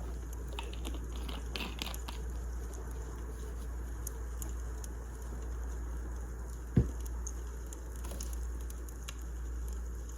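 Wood fire crackling, with scattered small snaps and one sharp, loud pop about two-thirds of the way through.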